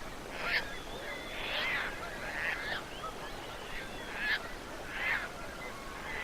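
Geese honking: several birds giving short, repeated calls, some overlapping, about one a second.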